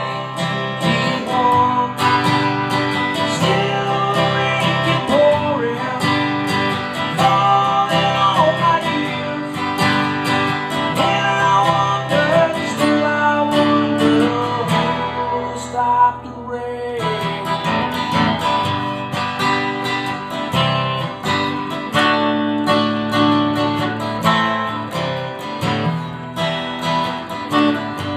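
Acoustic guitar strumming chords with picked melody notes, an instrumental passage with no vocals.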